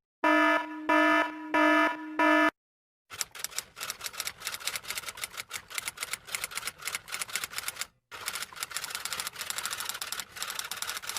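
Four short electronic beeps, evenly spaced, then after a brief pause a long run of rapid typewriter key clacking that stops briefly near the end and carries on.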